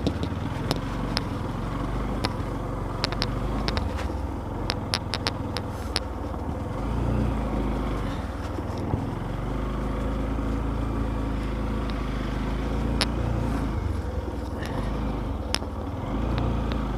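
Motorcycle on the move: a steady low engine and road rumble, its note shifting about seven seconds in, with many sharp clicks and knocks scattered through.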